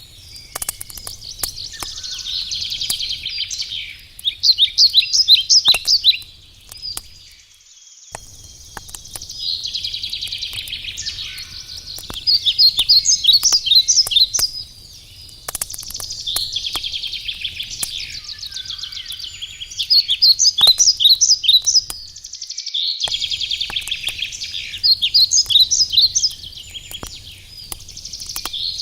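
A songbird singing over and over, each phrase a quick run of high notes lasting about two seconds, with short pauses between. Sharp crackles from a burning wood campfire are scattered throughout.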